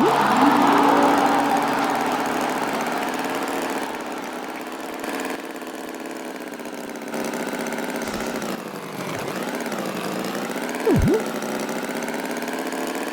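Tractor engine running steadily at an idle, loudest at the start and easing off over the first few seconds. A brief sharp swoop in pitch comes at the very start and again about 11 seconds in.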